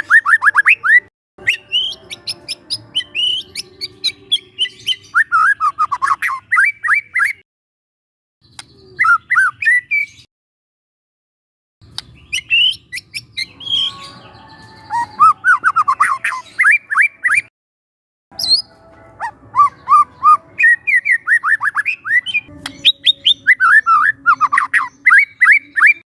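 Young wild white-rumped shama singing in phrases of rapid repeated chips and falling whistled notes, broken by a few short silent gaps.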